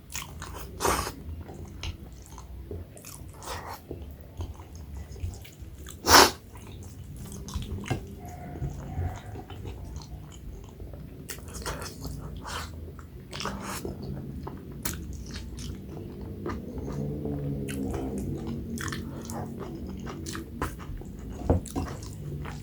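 Close-miked eating by hand: wet chewing and lip smacks while mashing and eating soft maize dhido with nettle curry and chicken, with scattered small clicks and one louder sharp smack about six seconds in.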